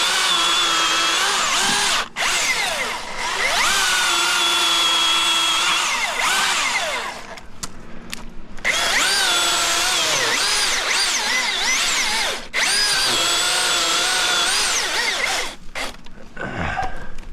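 Milwaukee battery-powered chainsaw cutting in several bursts. The electric motor's whine drops in pitch as the chain loads up in the wood and rises again as it frees. It stops briefly about 2 s, 7.5 s and 12.5 s in, and again near the end.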